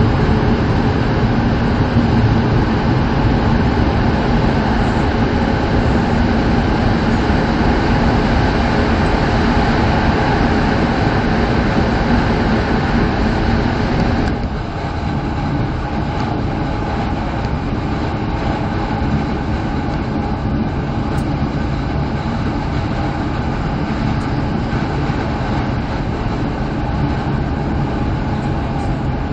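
Steady running noise inside the cabin of an E7 series Shinkansen train: a dense rumble and rush of wheels and air. About halfway through the noise suddenly drops a little and loses much of its hiss, then carries on steady and slightly softer.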